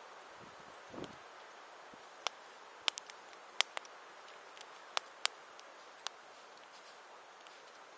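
Wood campfire crackling: a steady hiss with sharp pops at irregular intervals.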